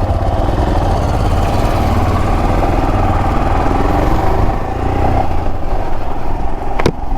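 Motorcycle engine running with a steady low rumble, its pitch climbing a little in the middle. A single sharp click near the end.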